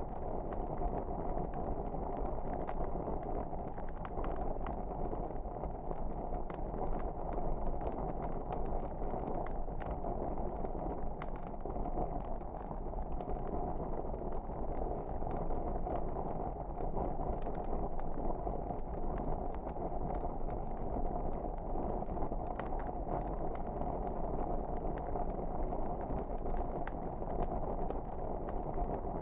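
Wood fire burning: a steady low rush of flames with frequent, irregular small crackles and pops.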